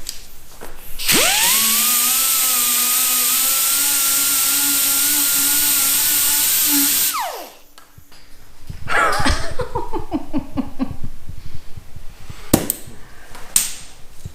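A disc grinder spins up with a rising whine, runs steadily on the fender's sheet metal for about six seconds, then winds down. About two seconds later comes a rapid clatter of knocks and a few sharp clicks, as the abrasive disc that came off goes flying.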